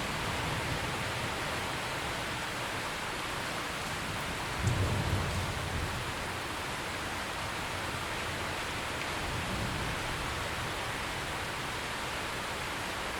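Steady rain falling, with a low rumble of distant thunder about five seconds in and a fainter one near ten seconds.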